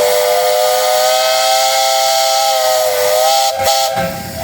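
Steam whistle on a 1906 15-horsepower Russell steam traction engine blowing one long blast: a chord of several tones over a loud hiss of steam. The pitch sags slightly about three seconds in, and the blast breaks off briefly near the end before sounding again.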